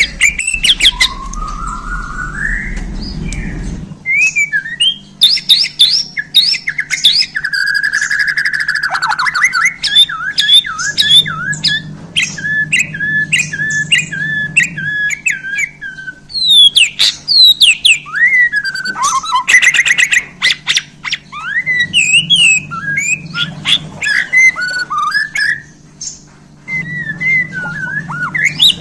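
Bornean white-rumped shama (murai batu) singing a varied song of whistled rising and falling phrases, sharp ticking notes and a run of repeated notes about halfway through. The song is full of isian, the calls of other birds that it mimics.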